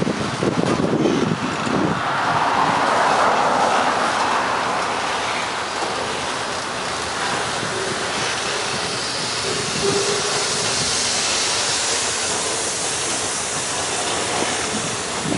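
Freight train cars rolling past close by: steel wheels rumbling and clattering over the rails, steady throughout.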